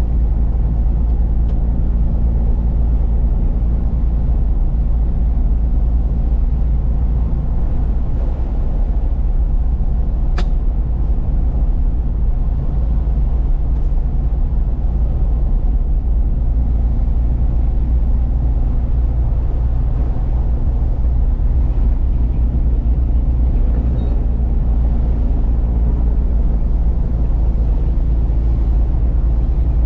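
Truck engine running and road noise heard from inside the cab while driving, a steady low drone with no changes in pitch. A single brief sharp click about ten seconds in.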